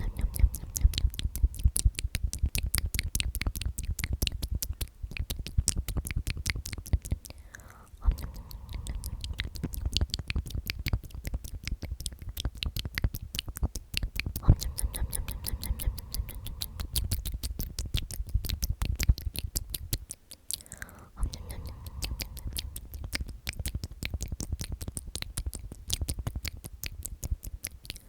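Close-miked whispered "omnomnom" repeated rapidly, heard mostly as dense wet lip and mouth clicks. The runs are broken by short pauses about 8, 14 and 20 seconds in.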